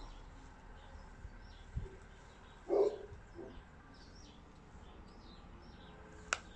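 Small birds chirping faintly and repeatedly in the background. A single short dog bark comes about three seconds in, and there is a sharp click near the end.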